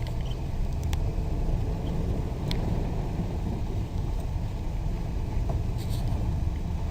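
Steady low rumble of a car driving, heard from inside the vehicle, with a few faint clicks.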